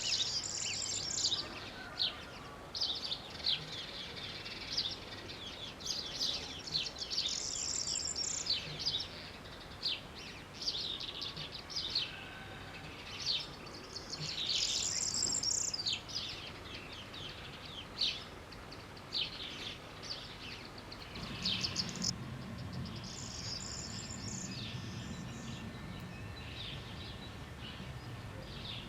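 Small birds chirping and twittering: a steady run of short, high chirps and trills in clusters with brief gaps. About two-thirds of the way through, a low steady hum joins in underneath.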